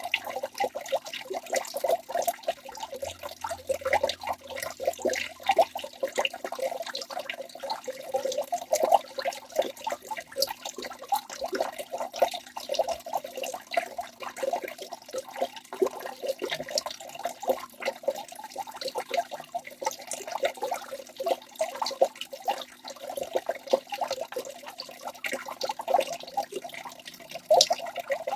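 Waterfall: water pouring and splashing steadily into a pool, a busy, mid-pitched churn of small splashes with no let-up.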